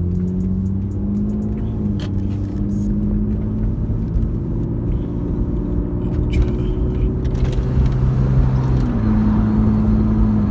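Lexus IS300's 2JZ-GE straight-six through a new aftermarket cat-back exhaust, heard from inside the cabin while driving: a steady engine and exhaust drone over road rumble, the note rising slightly near the end. The driver suspects part of the noise comes from a not-yet-tightened joint at the front of the mid pipe.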